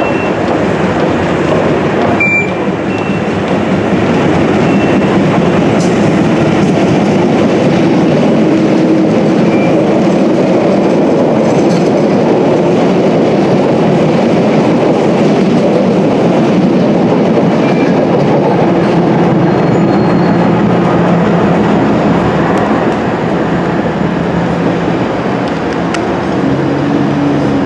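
London Underground Central line Rail Adhesion Train, a 1962 Stock unit, running through the station without stopping: a steady rumble of wheels on rail with a low motor hum and occasional brief wheel squeaks. It grows louder about four seconds in and stays loud as the train passes.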